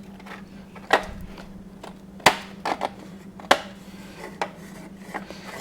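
A piece of cut foundation being pushed into a beehive frame by hand: a handful of sharp clicks and knocks, the loudest a little over two seconds in.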